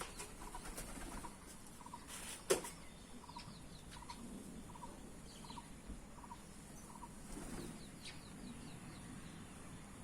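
Faint bird calls: a short note repeated about every two-thirds of a second for most of the clip, with scattered higher chirps. A sharp click about two and a half seconds in.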